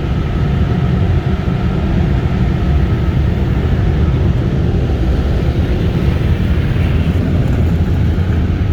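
Loud, steady rushing roar of touchless car wash machinery, heard from inside the car's cabin, with most of its weight in a deep rumble.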